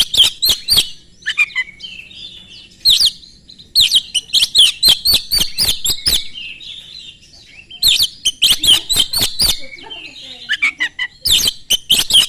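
Oriental magpie-robin (kacer) in full song, in loud bursts of rapid, sharp whistled and chattering notes broken by short pauses.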